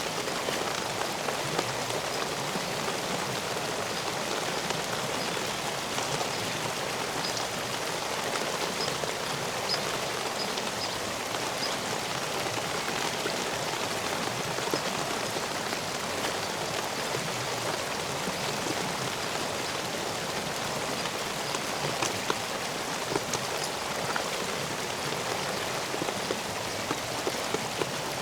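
Steady rain falling, with scattered louder drips.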